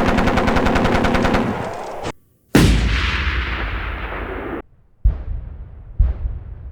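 Gunfire sound effects: a rapid machine-gun burst that stops about two seconds in, then, after a brief gap, a single heavy blast with a long decaying tail that cuts off suddenly, followed by two single heavy shots about a second apart.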